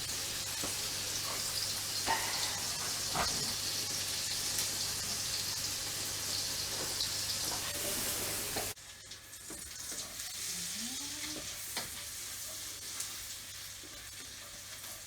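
Chopped garlic sizzling in hot oil in a pan, a steady hiss with occasional short clicks of stirring. About nine seconds in the sizzle drops suddenly to a quieter level.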